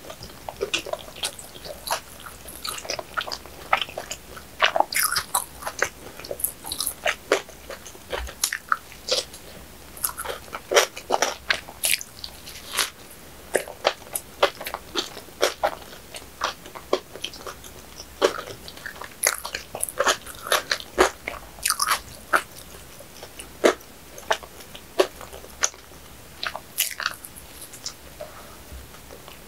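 Close-miked eating of soft bread and pastry: chewing with many small wet mouth clicks and smacks and an occasional bite.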